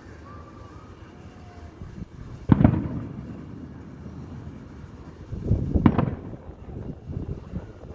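Aerial fireworks exploding: one loud boom about two and a half seconds in, then a cluster of bangs and crackles around six seconds in, each followed by a low rumble.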